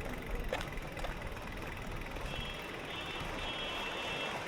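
Road and traffic noise heard from a moving bicycle, a steady rushing haze. In the second half a high, steady tone sounds in three short stretches.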